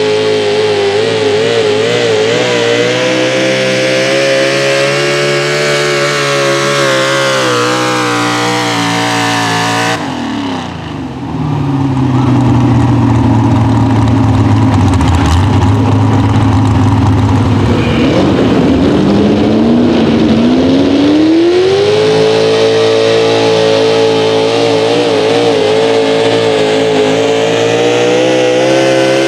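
Pro Stock four-wheel-drive pulling truck engines running at high revs under load, the note wavering and sagging as the truck bogs down. About a third of the way in the sound changes abruptly to a lower engine note, which climbs steeply back to full revs about two-thirds of the way through and holds there.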